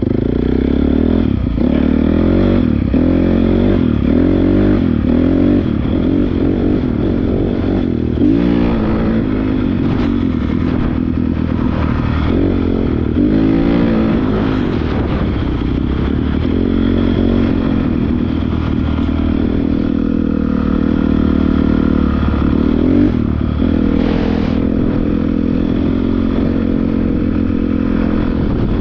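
Honda CRF450R's single-cylinder four-stroke engine running under way, its pitch rising and falling again and again as the throttle is worked.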